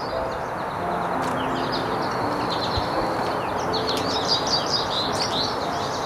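Small birds chirping and twittering in many quick short notes, thickest in the second half, over a steady background hiss.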